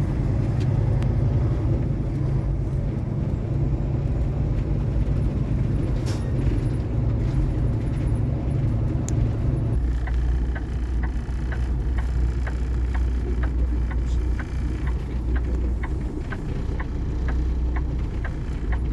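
Kenworth T680 semi truck's diesel engine running, heard from inside the cab. About halfway through its rumble drops lower as the truck slows, and a steady clicking starts, about two clicks a second, like a turn signal.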